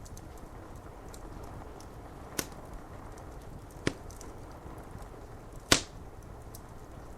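Wood fire crackling, with faint quick crackles throughout and three sharp pops, the last near the end the loudest, over a steady low rushing background.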